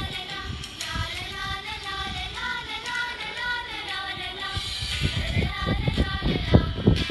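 A child singing a melody with musical accompaniment. From about five seconds in, a regular beat of sharp percussive strokes joins the singing.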